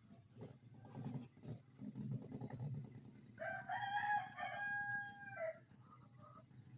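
A rooster crowing once: one drawn-out call of about two seconds, starting around the middle, followed by a short faint call. A few soft knocks come in the first second and a half, over a steady low background noise.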